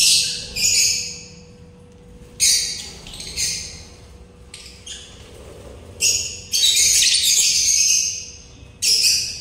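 Cage birds squawking and chirping in about eight short, scratchy, high-pitched bursts, one of them drawn out for nearly two seconds near the end.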